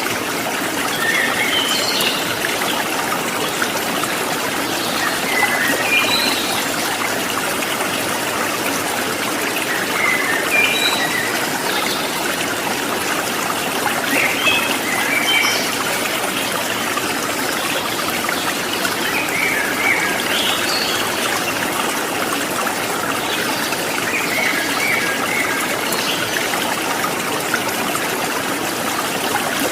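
Stream water trickling and babbling steadily, with small birds chirping in short phrases every few seconds.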